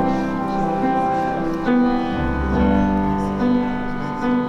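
Slow instrumental keyboard music: held chords changing about once a second, with a deep bass note coming in about two seconds in and fading a second later.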